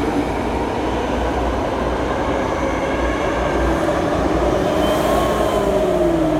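BART train running: a loud, steady rumble and hiss with a faint whine that glides in pitch, falling near the end.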